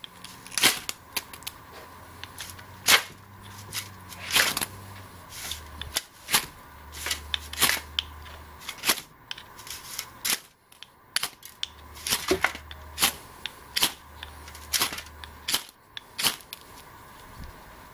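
Ferrocerium rod scraped hard with a striker, throwing sparks into a bird's-nest tinder bundle: about twenty short, sharp strikes, roughly one a second and unevenly spaced.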